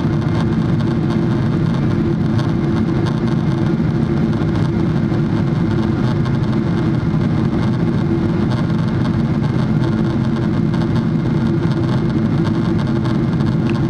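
Steady cabin noise inside a Boeing 777-300: the constant drone of the jet engines and airflow, with a low steady hum.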